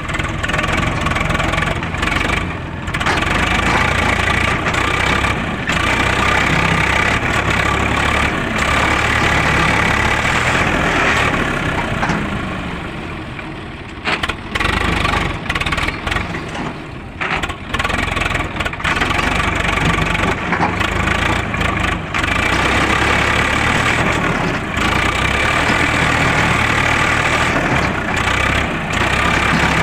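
Tractor engine running steadily under load, its level dropping and breaking up for a few seconds midway before coming back up.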